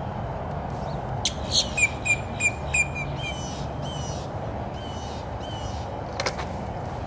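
A small bird calling: a quick run of about six sharp high chirps starting about a second in, then softer drawn-out calls, over steady background noise. A short sharp click comes near the end.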